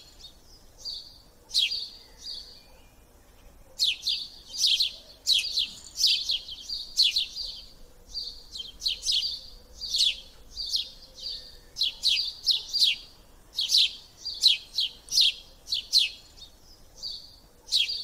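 A small bird chirping in quick runs of short, high, falling chirps, several a second, with brief pauses between the runs.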